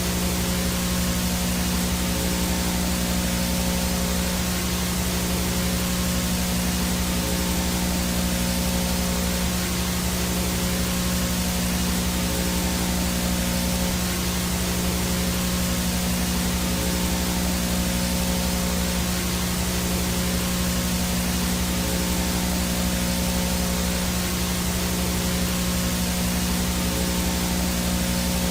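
VHS static noise: a steady, even hiss of white noise with a low electrical buzz underneath.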